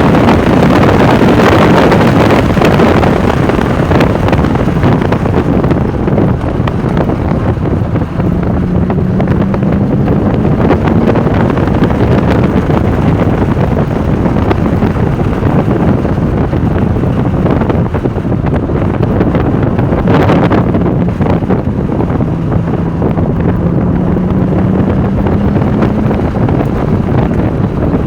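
Porsche 996 Turbo's twin-turbo flat-six running hard under load, loud, buried in heavy wind noise on the microphone. The engine note climbs steadily twice, about eight seconds in and again about twenty-two seconds in.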